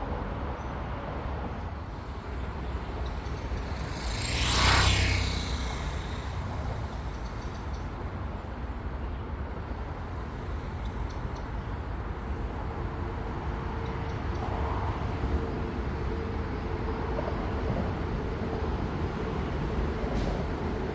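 Steady low outdoor rumble of distant traffic, with one vehicle whooshing past about four to five seconds in, swelling and fading over a couple of seconds.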